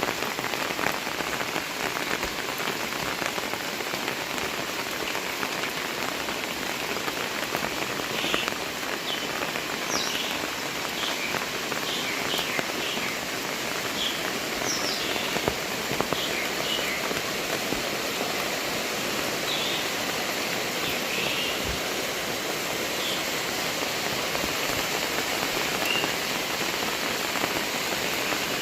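Heavy rain falling steadily in an even hiss, with a few short high chirps scattered through the middle.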